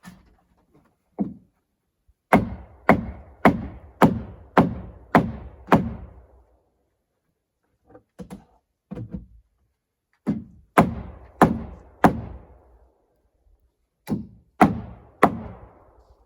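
Hammer striking wood, driving nails in three runs of blows about half a second apart: about seven, then four, then three, with a few light taps and pauses between.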